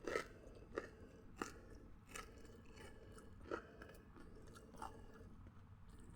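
A person chewing crunchy food close to the microphone, with a sharp crunch at the start and a few softer crunches at irregular intervals.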